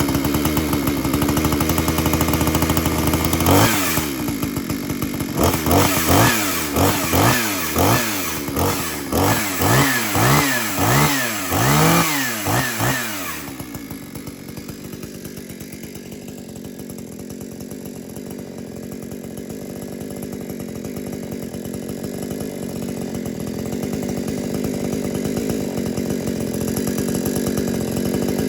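Stark 6200 two-stroke chainsaw engine running, then revved about ten times in quick succession. About halfway through it drops back to a steady idle.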